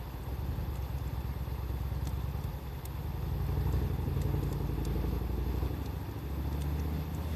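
Wood fire crackling with scattered sharp pops, over a low rumble that swells up twice.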